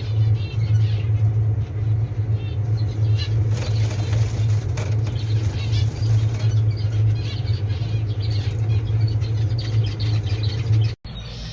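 Small cage birds chirping and fluttering their wings over a loud, steady low hum.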